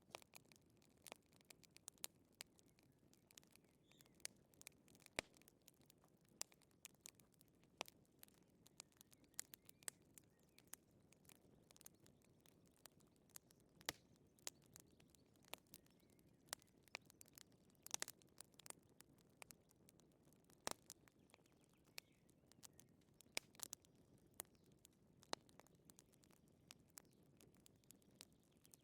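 Wood fire crackling, with irregular sharp pops and snaps several times a second over a soft low hiss.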